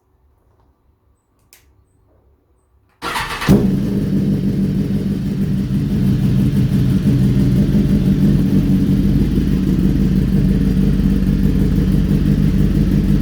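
BMW S1000RR inline-four sport bike fitted with an Arrow X-Kone exhaust, started about three seconds in: a brief burst as it catches, then a steady idle through the aftermarket silencer.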